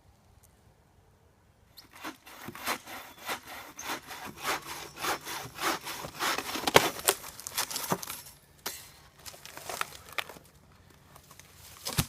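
Vintage hand saw cutting through a downed tree in rapid back-and-forth strokes, starting about two seconds in and stopping shortly before the end. A single sharp knock comes right at the end.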